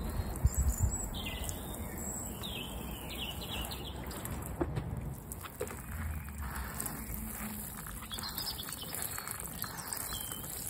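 Small birds chirping and singing in short phrases, twice with a gap between, over a low steady background rumble.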